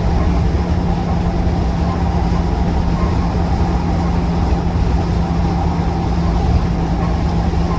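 Land Rover Defender 90 TD5's five-cylinder turbodiesel running at a steady cruise, heard inside the cabin, with a steady drone and the noise of its slightly aggressive tyres on the road.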